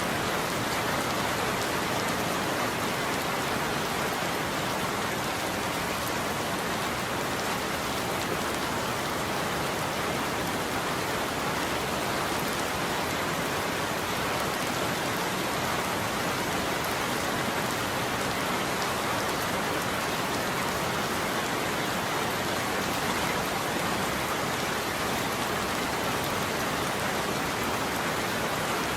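Steady heavy rain falling on a roof, an even, unbroken hiss.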